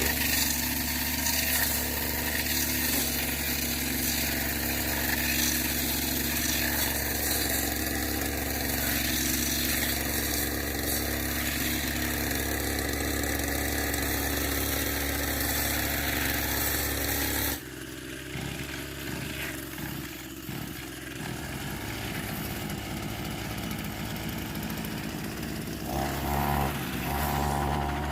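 An engine running steadily. About seventeen seconds in the sound cuts off abruptly to a quieter stretch, and an engine sound comes back near the end.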